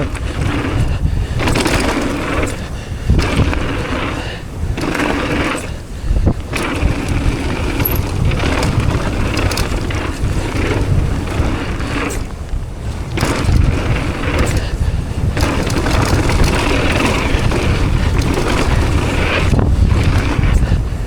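Mountain bike riding down a rough dirt trail: tyres rolling and scraping over dirt, with the bike knocking and rattling over bumps, under heavy wind rumble on the action camera's microphone.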